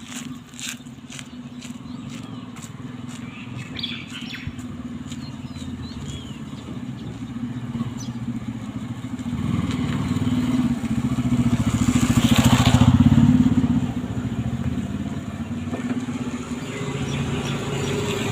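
A motor vehicle's engine running steadily, growing louder to a peak about twelve seconds in and then easing off. A few short bird chirps sound about three to five seconds in, and a quick run of clicks comes at the start.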